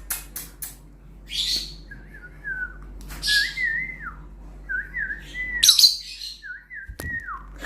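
Pet lovebirds giving short, sharp chirps, with a few clicks in the first second. Between them comes a clean, wavering whistle repeated four times, each phrase sliding down at the end.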